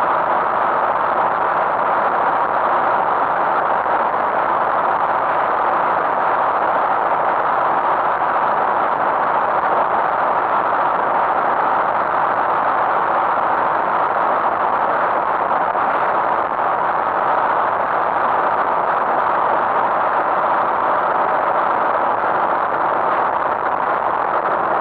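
Tractor engine running steadily with a constant, unchanging drone.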